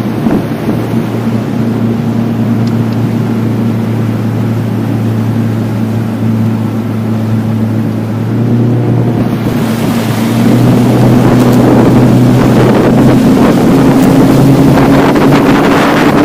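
Motorboat engine running steadily, then speeding up about ten seconds in, its pitch slowly rising as wind and water rush grow louder on the microphone.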